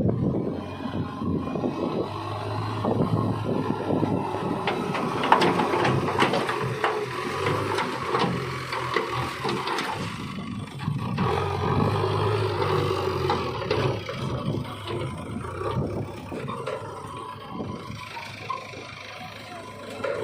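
Diesel engine of a JCB 3DX backhoe loader working, its level swelling and easing. A run of sharp knocks and scrapes comes in the middle.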